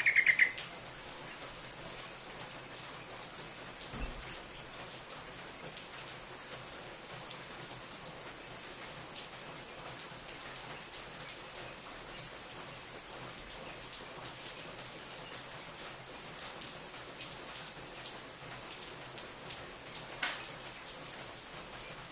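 Steady rain-like hiss throughout, with a short bird call from a yellow-vented bulbul (trucuk) right at the start and a fainter one near the end.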